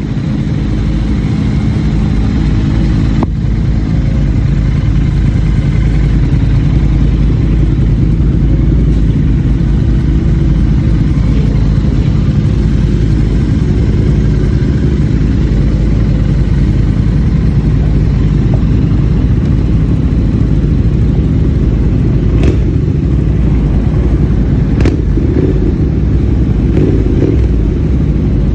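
Triumph Thruxton motorcycle's parallel-twin engine running steadily, with a few brief clicks.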